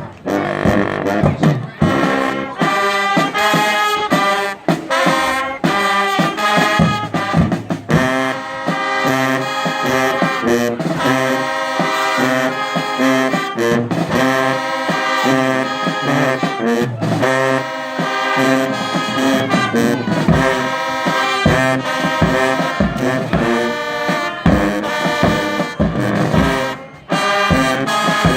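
High school band playing a brass-led piece, trombones and trumpets to the fore, in rhythmic chords. In the last several seconds, low drum strikes come in on the beat.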